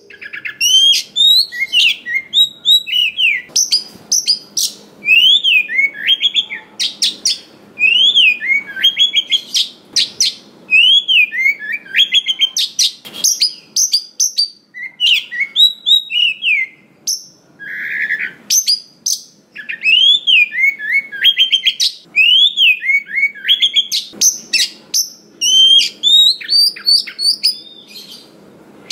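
Oriental magpie-robin (kacer) singing a fast, varied song of whistled notes that rise and fall, packed with quick repeated notes and many different phrases, with only brief pauses.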